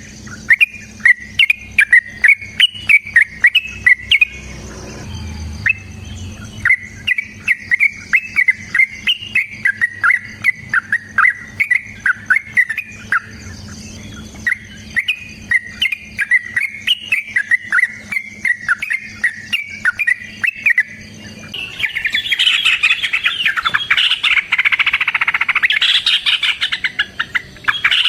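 Yellow-vented bulbul calling: a long run of quick, bubbly chirps, then about three quarters of the way through it breaks into a louder, dense chattering.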